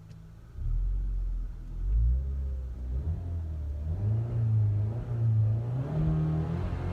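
Alfa Romeo 159 2.2 JTS four-cylinder petrol engine heard from inside the cabin. It picks up sharply from a low idle about half a second in, then revs higher in several steps, holding each engine speed briefly.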